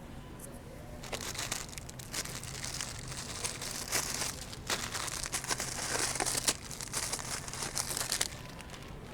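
Plastic bags crinkling and rustling as they are handled, a dense crackle that starts about a second in and stops near the end.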